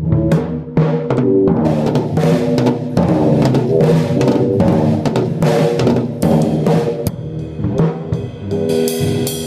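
Drum kit played loudly, with rapid snare and bass drum hits and crashing cymbals over other instruments holding pitched notes. About seven seconds in, the drumming thins out and a cymbal rings on over the sustained notes.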